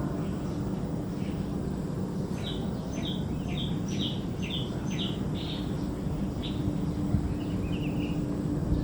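A small songbird calls a string of short, sharp chirps, about two a second, then a short trill near the end, over a steady low background rumble.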